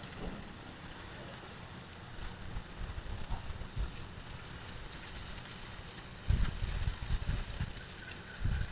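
Strong wind buffeting the microphone: irregular low rumbling gusts over a steady hiss, with heavier gusts about six seconds in and again near the end.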